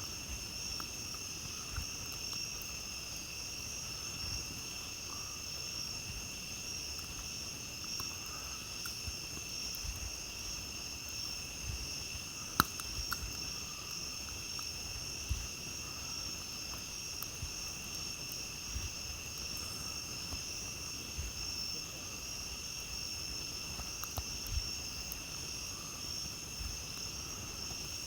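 A steady chorus of night insects, with scattered faint crackles from a wood campfire and one sharper pop about halfway through.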